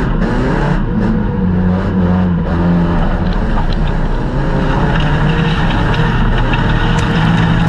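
Folkrace car's engine heard from inside the stripped cabin while racing, its pitch rising and falling as the driver lifts off and accelerates again through the corners.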